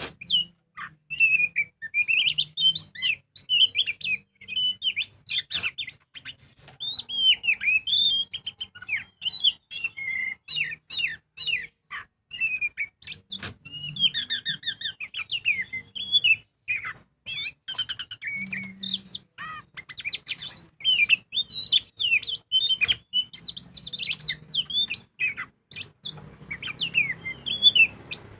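Oriental magpie-robin (kacer) singing in full, vigorous voice: a continuous, rapidly varied song of whistled phrases, slurred notes and sharp clicking calls with short pauses between phrases.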